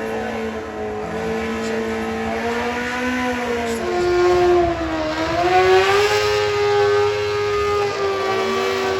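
Drag bike engines held at steady high revs. About halfway through the pitch dips and climbs again and the sound gets louder.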